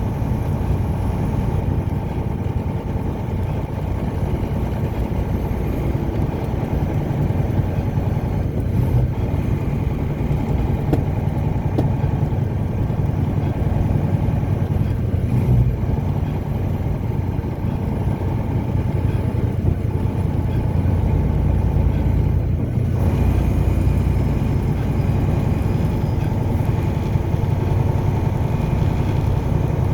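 A car driving along at a steady pace, its engine and tyres making a continuous low rumble.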